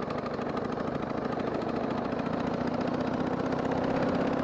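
Harley-Davidson Sportster 883's V-twin engine running under way, with wind and road noise, slowly growing louder.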